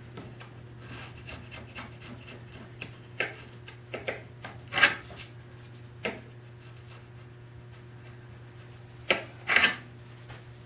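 Wooden pieces being handled and rubbed, with several short, sharp scrapes and knocks, two of them close together near the end.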